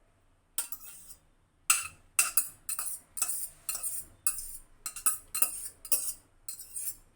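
Kitchen utensil scraping and clinking against cookware as spaghetti is served out into a bowl: a run of short strokes, roughly two a second, starting about half a second in.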